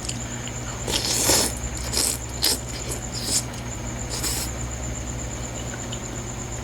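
Eating noises while having ramen: five short scraping, rustling bursts, the first and longest about a second in, over a steady low hum.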